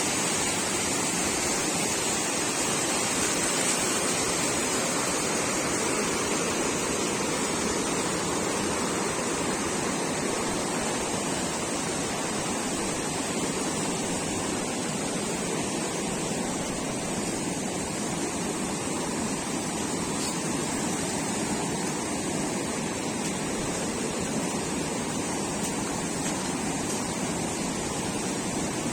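A steady, unbroken rush of water, loud and even throughout.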